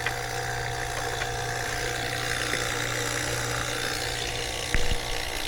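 Refrigeration vacuum pump running steadily with a steady hum, evacuating a heat pump's refrigerant lines after a reversing valve replacement. A few light clicks sound over it.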